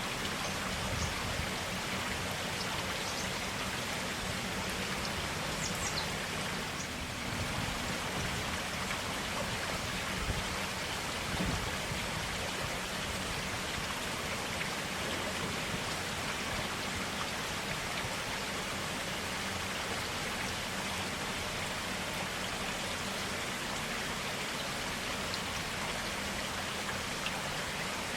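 A forest stream running steadily, a constant rush of water with small splashes and drips.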